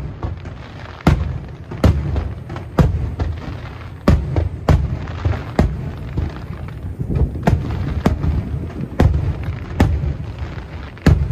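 Aerial fireworks shells bursting one after another, with sharp booms about once a second, each followed by a rumbling echo.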